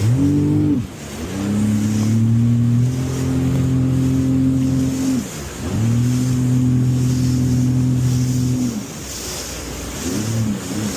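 Jet ski engine running in uneven surges of throttle: a short burst, then two longer pushes with brief drops between, falling back to a lower, wavering note near the end. The on-off throttle is that of a beginner not yet holding a steady speed. Water and wind rush along underneath.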